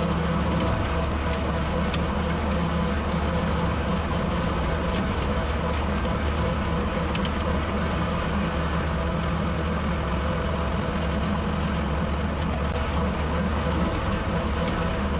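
Tractor engine running steadily while it drives a bush hog rotary cutter through grass and brush.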